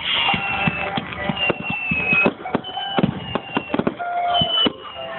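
Fireworks display going off: a rapid series of cracks and bangs, with repeated high whistles that each fall slightly in pitch.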